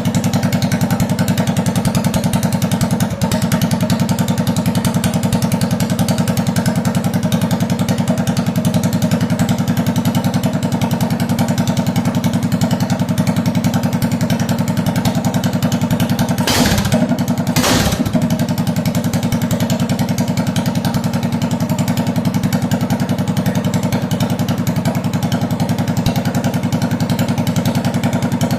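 A minibike's small engine idling steadily. About two-thirds of the way through, two short bursts of rushing noise come about a second apart.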